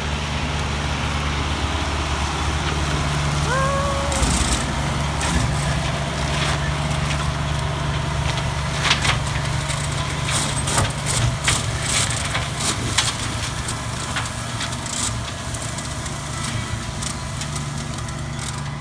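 Tractor engine running steadily as it mows grass, with a number of sharp clicks and knocks in the middle stretch.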